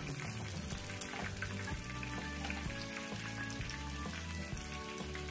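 Chicken wings sizzling steadily in hot oil during their second fry, with a few sharp clicks of metal tongs as pieces are lifted into a wire strainer. Background music plays underneath.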